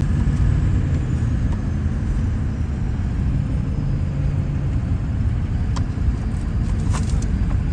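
Steady low road and engine rumble of a car driving, heard from inside the cabin, with a few faint ticks near the end.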